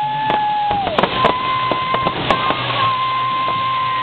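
Fireworks going off with a few sharp bangs, a steady crackling hiss between them, over music holding long notes that step up in pitch and slide down at the end.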